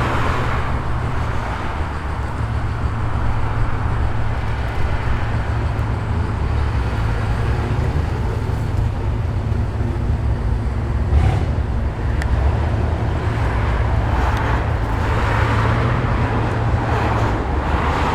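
A car engine rumbling steadily at low revs, deep and loud, as the car rolls slowly past.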